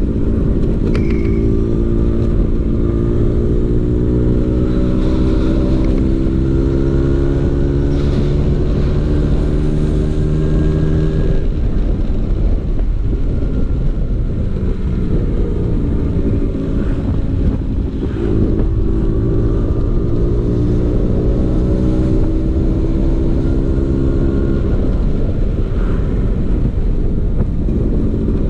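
Vespa PX 150's single-cylinder two-stroke engine running through a DRC Victory racing exhaust, its pitch slowly rising under steady throttle. The tone breaks off about eleven seconds in, then climbs steadily again from about eighteen seconds.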